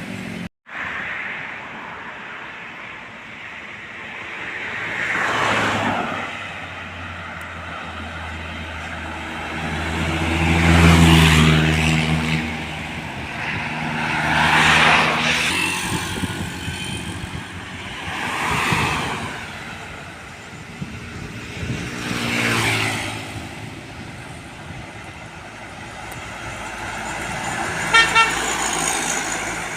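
Road traffic with trucks passing one after another: engine and tyre noise swells and fades with each pass. Near the end a horn sounds two short toots.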